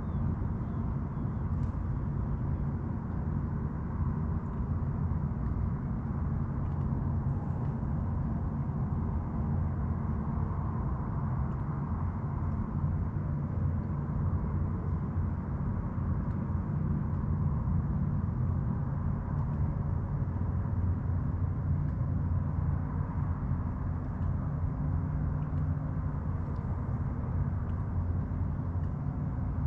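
Boat engine running steadily, a low, even hum that does not rise or fall.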